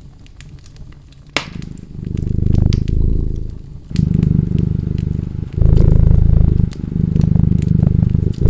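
Cat purring close up in rhythmic low pulses, one for each breath, with the pops and crackles of a wood fire throughout; a single louder pop comes about a second and a half in, just before the purring starts.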